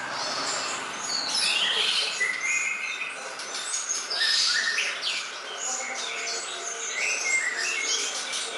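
Songbird singing a fast, varied string of short whistles and chirps, one phrase after another.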